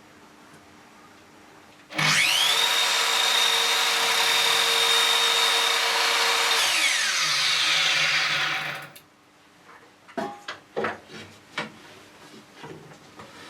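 An electric power tool starts about two seconds in with a quick rising whine and runs steadily at speed for about five seconds. It is then switched off and winds down with a falling whine. A few sharp knocks and clicks follow.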